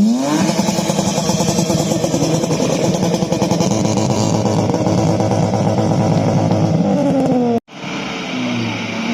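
A car engine revving hard, rising quickly to high revs and holding there for several seconds before dropping away. After a sudden break near the end, a lower, steadier engine sound follows.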